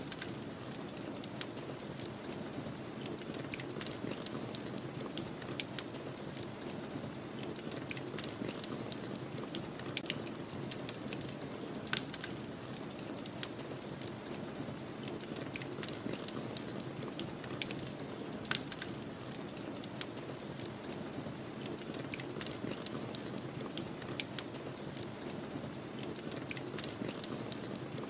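Wood fire crackling, with frequent irregular sharp pops and snaps over a steady low rush of snowstorm wind.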